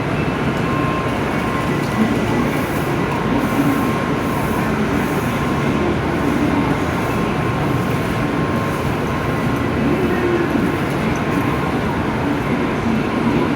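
Steady running noise of a vehicle in motion, an even rumble with a faint steady tone.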